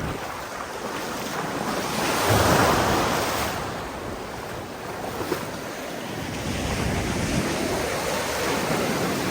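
Ocean surf: waves washing in steadily, with one louder wave breaking about two seconds in. Wind buffets the microphone.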